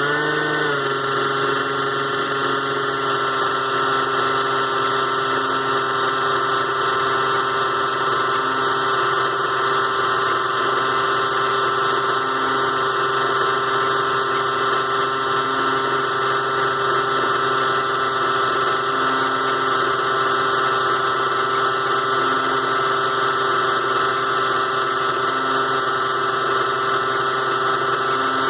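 The DC motor of a ZhouYu 6-in-1 mini lathe running steadily with a whine while it turns aluminium stock. Its pitch drops slightly about half a second in, then holds.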